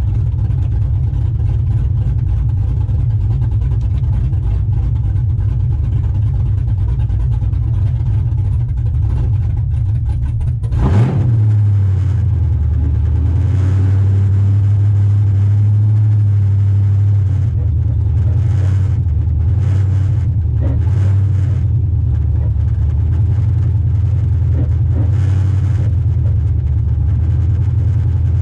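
LS V8 in a 1995 Chevy pickup running on open headers with a loud, steady low exhaust note. About eleven seconds in there is a sudden sharp knock, after which the engine note settles into a steadier, slightly louder tone that shifts a few times.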